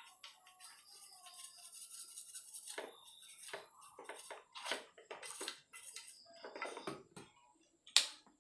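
Scrubbing and scraping on a Yamaha RX King crankcase to shift stubborn crust: short, irregular scratchy strokes, with one sharp click about eight seconds in.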